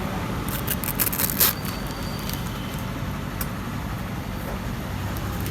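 A vehicle engine running steadily with a low hum, and a quick cluster of clicks and knocks about a second in.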